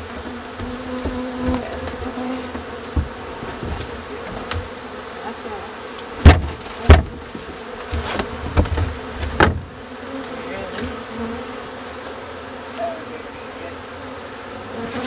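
Honeybee swarm buzzing steadily, with a few sharp knocks: two loud ones about six and seven seconds in and another near nine and a half seconds.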